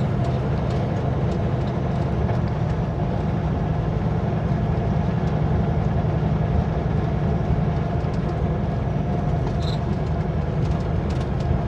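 Kenworth W900L semi truck heard from inside the cab while driving: a steady engine drone and road noise.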